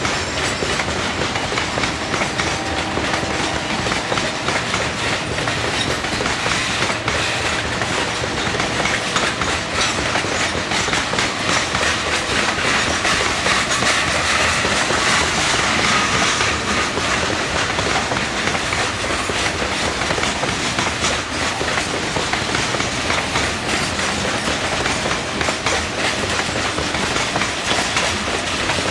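Coal train cars rolling past, a steady rumble of steel wheels on rail with clickety-clack over the rail joints.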